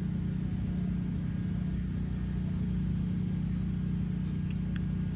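A steady low rumble or hum throughout, with a few faint, very short chirps near the end.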